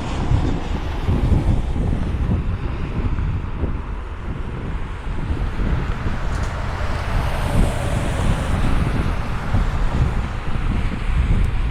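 Wind buffeting the microphone in gusts, with a low rumble of distant jet aircraft underneath.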